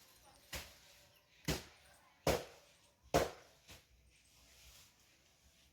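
Hoe blade striking into garden soil in a steady rhythm, about one blow a second: four strong strokes and a lighter one, then a pause of about two seconds.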